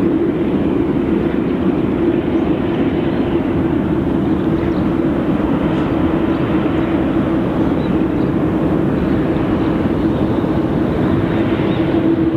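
Jet airliner engine noise: a loud, even rush with a constant low hum.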